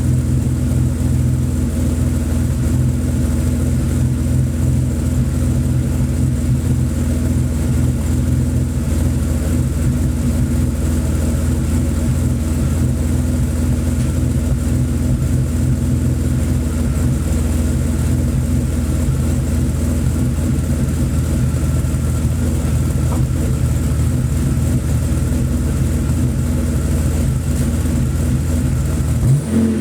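BMW 850 (E31) V12 engine idling steadily while warming up after a cold start. The throttle is blipped into a quick rev right at the end.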